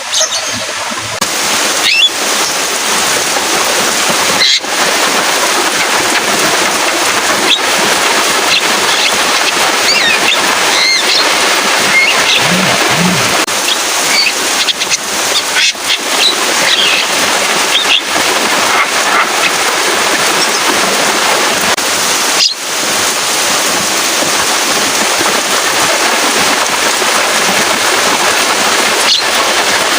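Steady, loud rain hiss, with a few faint, short calls of a Javan myna scattered through it.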